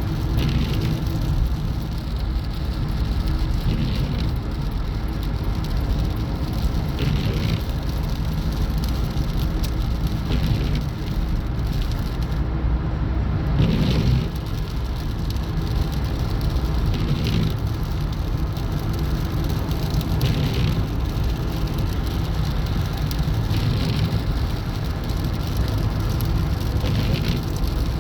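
Steady road and engine noise of a moving vehicle, a low rumble with a hiss over it, with a brief swell of hiss every few seconds.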